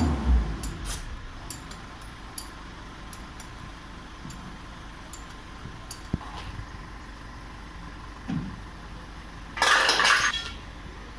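Metal parts and tools being handled during truck disc brake work: scattered light clinks and knocks, then a loud, short rushing, scraping burst near the end.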